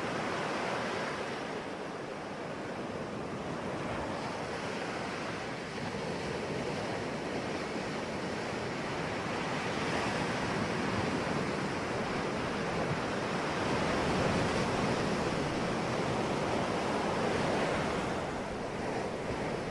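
Sea waves breaking and washing on a shore, a continuous rush of surf that swells and eases every few seconds.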